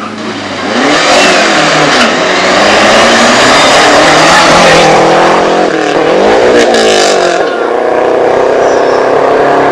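Rally car engine at high revs as it approaches and passes close by. The engine note climbs about a second in, then dips and rises again around six and a half seconds in.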